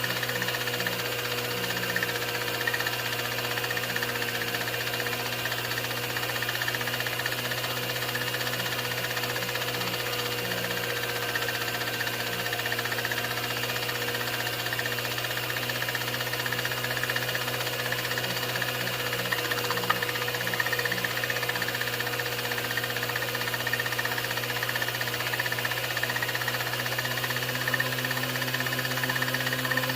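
16mm film projector running: a steady mechanical hum and whir with hiss, unchanging throughout.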